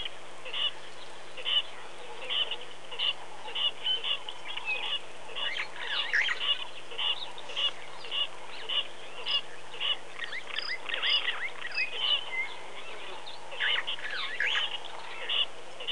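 Wild birds calling over and over in short, sharp, repeated calls, about two a second, with thicker bouts of overlapping calls in the middle of the stretch.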